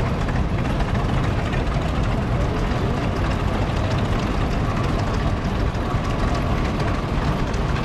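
Vintage tractor engines running steadily as the tractors roll past.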